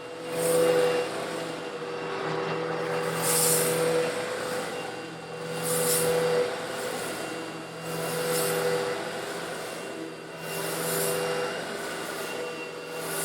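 Old Eureka vacuum cleaner motor running steadily while sucking up small coarse stone granules. A gritty high hiss swells and fades about every two and a half seconds as granules are drawn up the nozzle.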